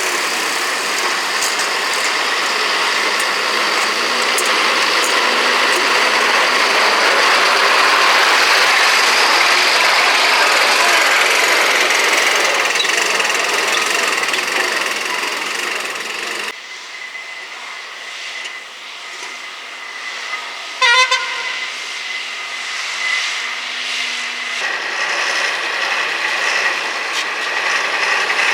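Loaded sand tipper truck driving past, a steady noisy mix of engine and tyres; the sound drops abruptly about two-thirds of the way through, and a short truck horn blast sounds soon after.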